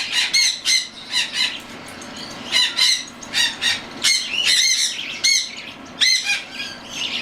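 Young cockatiels calling over and over in short, arching screeches, several a second, with wings flapping underneath.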